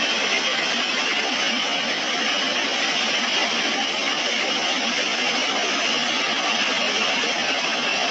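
Steady rushing of fast-flowing floodwater, an even noise with no pitch to it.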